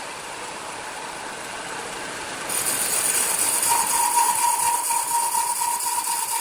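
Sawmill machinery running with a steady mechanical noise. It grows louder and hissier about two and a half seconds in, and a steady high whine joins just before four seconds.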